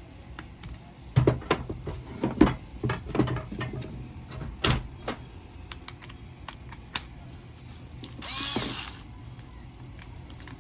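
Irregular clicks and knocks of small plastic and metal parts being handled as a cable is worked loose from an electric polisher's switch and housing. Near the end there is a short rushing noise lasting about a second.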